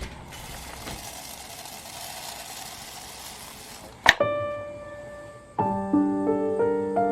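Even background noise for about four seconds, then a sharp click, and background piano music comes in: a single held note, then chords.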